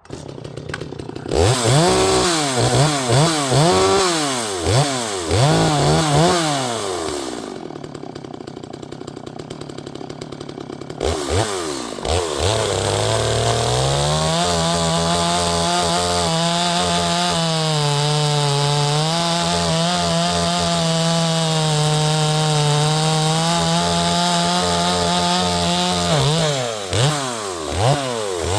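Neotec NS846 45.4cc two-stroke chainsaw, a Stihl MS250 clone, catching and being revved in short rising-and-falling blips, then dropping to idle for a few seconds. It then climbs to steady high revs held for about twelve seconds, with a few more blips near the end. The saw is new out of the box, its carburettor not yet adjusted.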